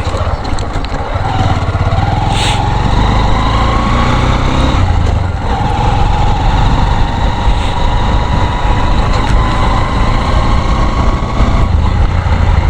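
Motorcycle running on the move, a steady low rumble with a faint engine tone that slowly climbs in pitch twice as it picks up speed.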